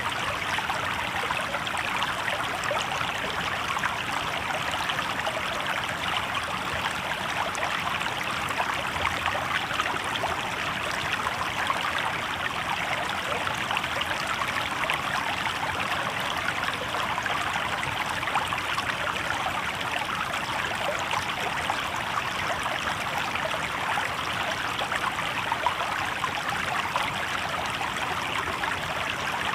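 Shallow river babbling over rocks: a steady, even rush of flowing water.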